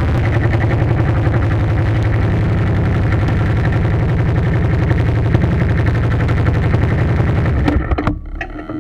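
An engine running steadily with a rapid, even firing pulse, cutting off near the end and followed by a few clicks.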